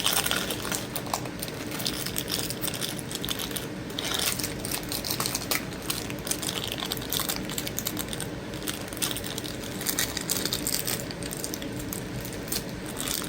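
Irregular light clicking and rattling of measuring cups and dry pancake mix being handled and scooped.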